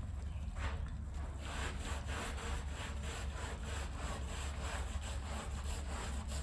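A stiff brush scrubbing a rug in quick, even back-and-forth strokes, about three a second, over a steady low hum.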